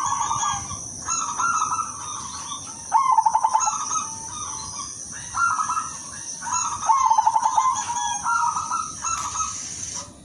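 Silver-morph zebra dove (perkutut) singing: repeated cooing phrases every second or two, several breaking into fast stuttering coos. A steady high-pitched ringing sounds behind them and cuts off near the end.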